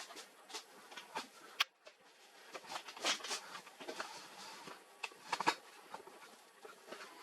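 Irregular clicks and light knocks from printer parts being handled during disassembly, with a sharp click about a second and a half in and a quick cluster of knocks near the end.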